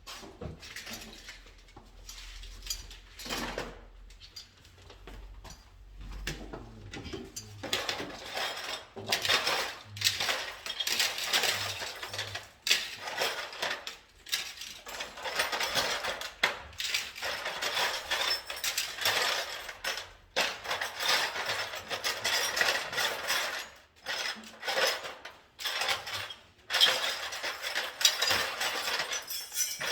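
Small metal parts and hand tools clinking and rattling as they are handled, in many short clinks and scrapes, sparse at first and busier from about eight seconds in.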